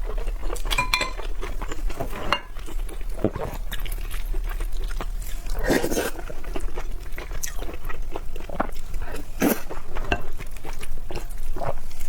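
Close-miked eating: chewing and biting food, with short clicks and a light clink of utensils against a dish.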